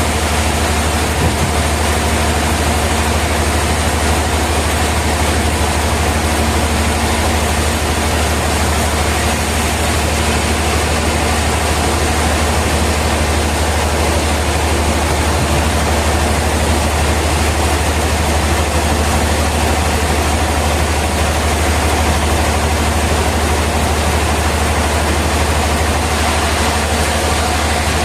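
Sawmill machinery running steadily: a continuous mechanical drone with a strong low hum, no cut starting or stopping.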